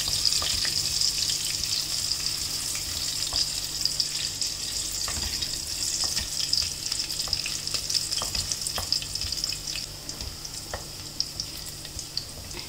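Chopped ginger, garlic and sliced bird's eye chillies sizzling in hot oil, stirred with a wooden spatula that gives scattered light taps and scrapes against the pan. The sizzle eases slightly near the end.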